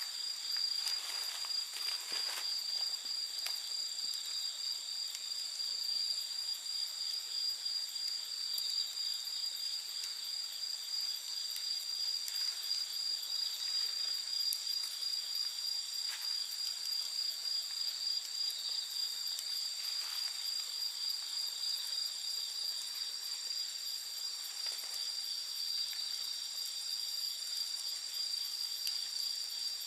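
Steady chorus of night insects trilling at a high, even pitch, with a few faint crackles and pops from a wood campfire.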